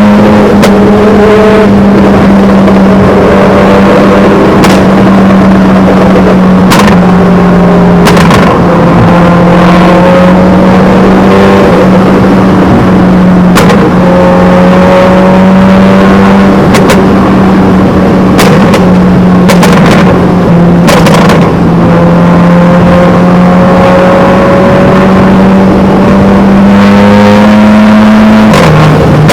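Straight-piped car exhaust droning loudly at steady cruising revs, with its pitch dropping in small steps a few times and more sharply near the end. Short sharp clicks recur now and then.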